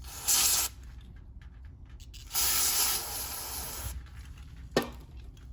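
Spray hissing onto a small-engine carburetor to clean the grime off its top: a short burst, then a longer one of about a second and a half. A single sharp click near the end.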